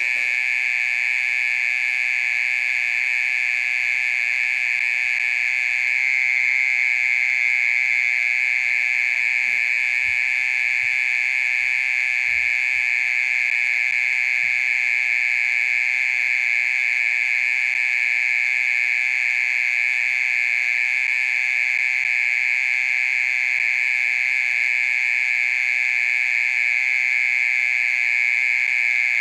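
Oriental mole cricket singing: a loud, high-pitched, unbroken trill held steady the whole time.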